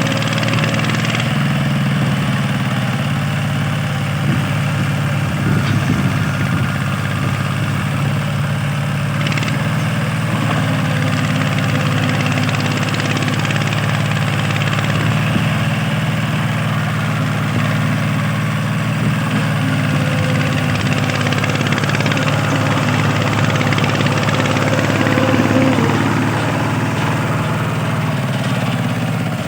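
Small tractor engine running steadily at an even speed, a little louder for a moment near the end.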